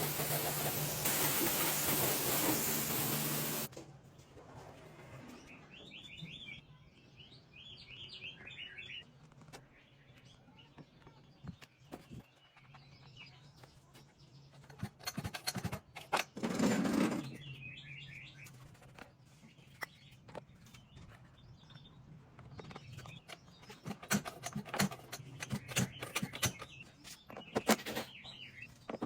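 Birds chirping, with scattered knocks and clicks. A loud steady hiss fills the first few seconds and cuts off suddenly.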